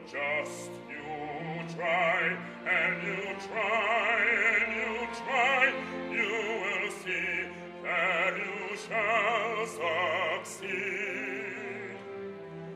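Operatic singing with a wide vibrato, in phrases broken by short pauses, over sustained low notes of instrumental accompaniment.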